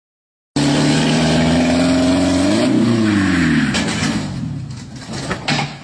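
Truck engine running loudly and steadily. About two and a half seconds in, its pitch shifts, and then the sound fades off, with a few knocks near the end.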